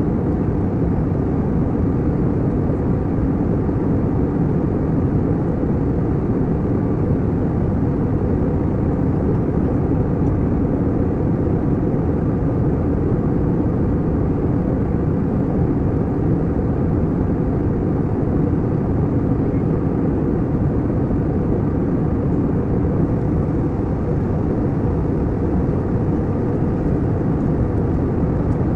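Airliner cabin noise in flight: a steady, unchanging low rush of engine and airflow noise heard from inside the cabin.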